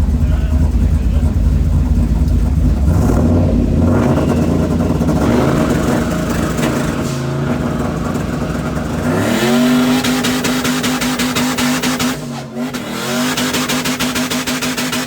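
Turbocharged 6-litre engine of a Chevrolet C10 burnout truck, revving up during a burnout. The revs climb about a third of the way in, rise sharply near two-thirds in and are held high and steady, dipping briefly once before climbing back.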